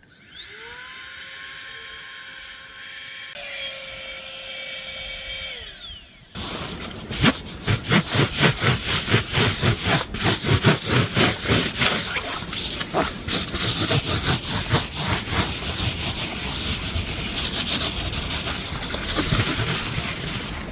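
Small battery-powered Etenwolf air pump spinning up with a rising whine, running steadily with its tone changing a little about three seconds in, then switching off at about six seconds. After that comes a long stretch of fast, irregular rustling and scraping.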